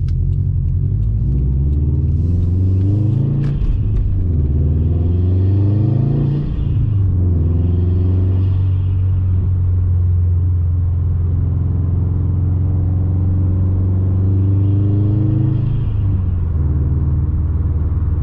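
2021 Subaru WRX STI's turbocharged flat-four engine with an RK Titanium catback exhaust and Cobb intake, heard from inside the cabin with the windows up. It pulls up through two gears, rising in pitch with a drop at each shift, with intake hiss climbing alongside. It then holds a steady cruise before easing off near the end.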